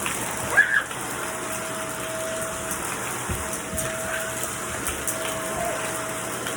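Household vacuum cleaner running steadily: a rushing hiss with a steady whine. A brief high-pitched cry rises and falls over it about half a second in.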